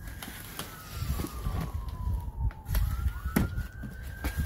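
An emergency-vehicle siren wailing: its pitch rises, falls slowly over about three seconds, then rises again. A few sharp clicks and knocks sound alongside it.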